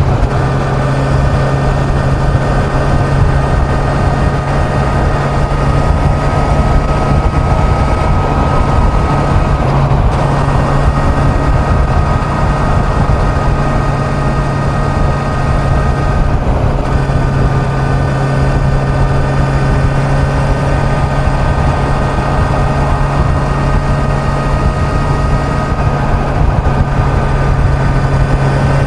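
Kawasaki Z900's inline-four engine running at a steady highway cruise, its pitch holding nearly constant, under a heavy low rush of wind noise.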